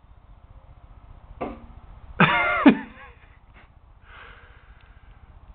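A short, throaty human vocal sound about two seconds in, lasting about half a second and falling in pitch at the end, of the cough or throat-clearing kind. It is preceded by a brief knock.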